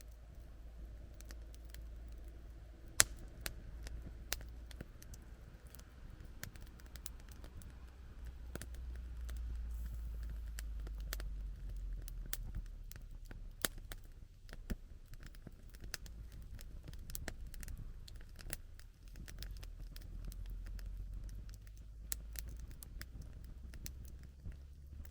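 Wood campfire crackling, with irregular snaps and pops over a low steady rumble; one sharp pop stands out about three seconds in.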